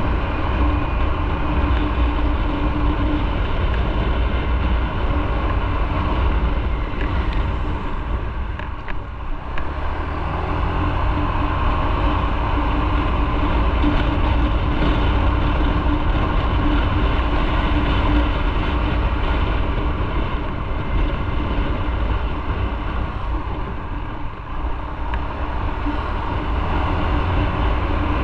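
Motorcycle on the move: engine running steadily under heavy wind rumble, easing off briefly twice.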